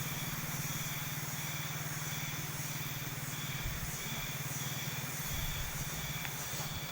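Trail motorcycle engine running steadily while riding, with a fast, even run of firing pulses and a hiss of wind and road noise over it. The engine note drops away briefly near the end.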